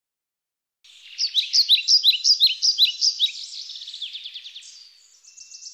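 A songbird singing: a quick run of bright, sharp chirps, about five a second, starting about a second in and fading into a softer, rapid trill.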